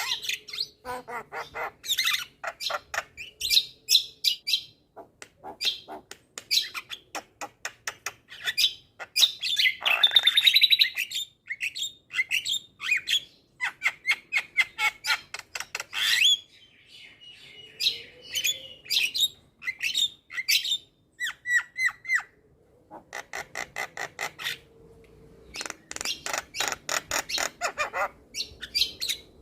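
Javan myna (jalak kebo) singing a long, varied song: fast runs of rattling clicks, harsh squawks and short whistled notes, broken by brief pauses.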